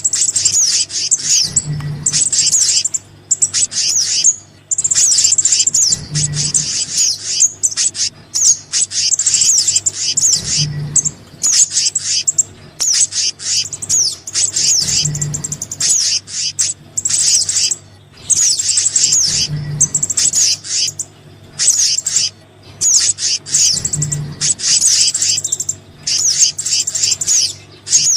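Looped bird-lure recording of small songbirds' calls: rapid high chirps and trills in dense phrases with short breaks. A soft low thump recurs about every four and a half seconds as the loop restarts.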